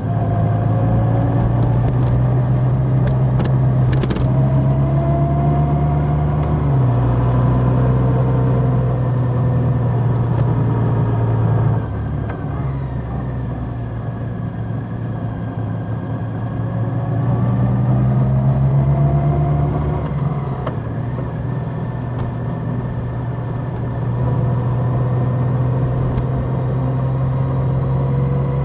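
Large motorcycle's engine running while riding, its note dropping and rising a few times with throttle and gear changes. A few sharp clicks sound about two to four seconds in.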